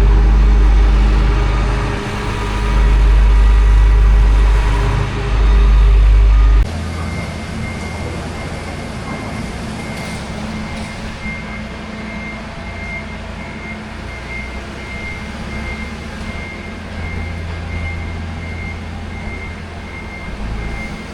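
Heavy farm machinery running with a loud low rumble that cuts off suddenly about seven seconds in. A quieter engine hum follows, with a reversing alarm beeping in an even, steady rhythm as a machine backs up.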